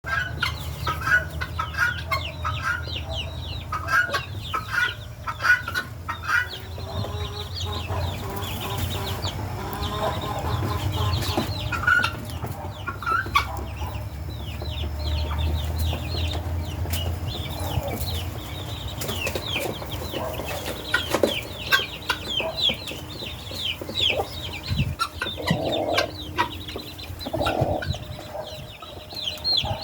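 A mixed flock of free-range chickens and helmeted guineafowl calling: hens clucking among a fast, continuous run of short, sharp, high-pitched calls, with a few louder calls standing out, over a low steady rumble.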